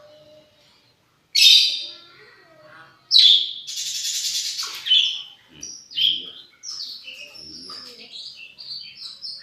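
Lovebird calling: a loud shrill shriek about a second and a half in, a longer harsh buzzy call from about three to five seconds, then a run of quicker high chirps.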